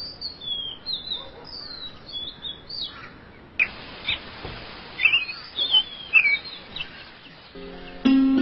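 Small birds chirping and singing: quick, high whistled notes that slide up and down, in short bursts of phrases over a faint hiss. Music comes in near the end.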